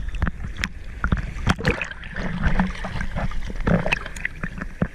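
Sea water splashing and small waves washing around, with many irregular sharp knocks and a low rumble.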